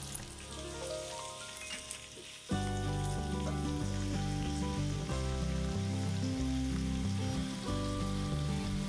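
Leek pieces sizzling as they fry in melted butter in a frying pan, with background music that gets louder about two and a half seconds in.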